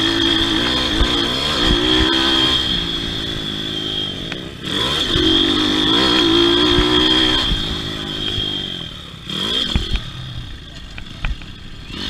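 Pit bike engine revving up and falling back repeatedly as the throttle is opened and closed, with a brief drop about four and a half seconds in. It eases to a quieter, lower running over the last few seconds, with a few sharp clacks.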